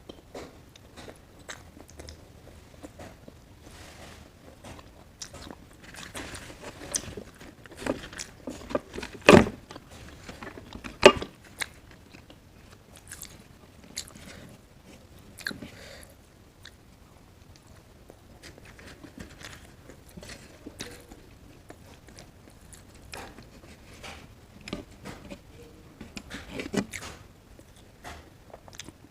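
Close-up mouth sounds of someone eating creamy paneer curry with roti: soft chewing and wet smacking clicks. Two louder sharp knocks come about a third of the way in.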